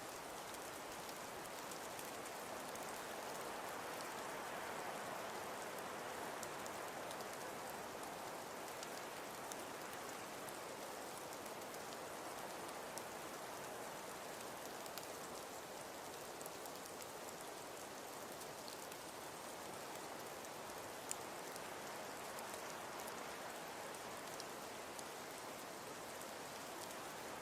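Wood fire burning in a fireplace: a steady soft rushing with scattered small crackles, and one sharper pop about three quarters of the way in.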